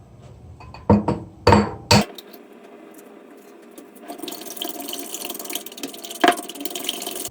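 An egg knocked three times against the rim of a bowl to crack it open. A steady hiss follows from about four seconds in, with one click near the end.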